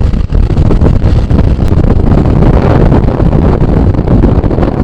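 Loud wind rush buffeting the microphone of a moving motorcycle, with road and engine noise mixed underneath.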